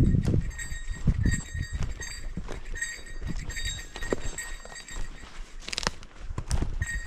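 A small metal bell, such as a hiker's bear bell, jingling about twice a second in step with footfalls, over low rumble from wind and movement. The jingling pauses briefly about two-thirds of the way through, and a short clatter follows.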